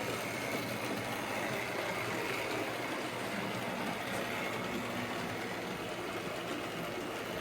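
1977 Hornby King Arthur class model locomotive with its old Hornby X04 motor running steadily along the track: an even whirring hum with a faint high whine.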